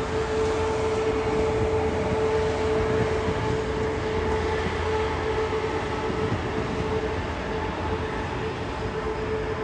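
Queensland Rail electric multiple-unit passenger train running along the tracks: a steady rolling rumble with a steady whine running through it.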